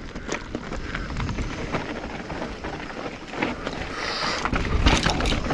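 Mountain bike rolling down a steep, loose dirt drop: tyres crunching and skidding over dirt and rocks, with the bike rattling and a steady stream of small clicks and knocks, getting louder near the end, and wind buffeting the microphone.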